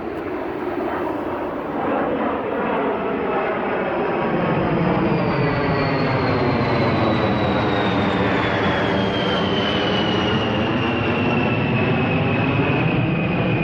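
Fixed-wing aircraft passing overhead, a steady engine noise with a high whine that falls slowly in pitch as it goes by.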